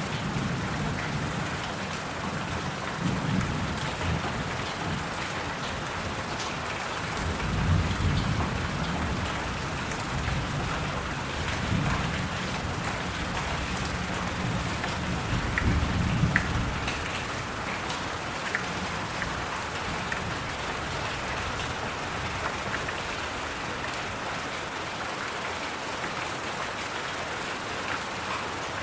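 Steady rain with low rolls of thunder swelling and fading several times, the strongest about eight seconds in and again about sixteen seconds in.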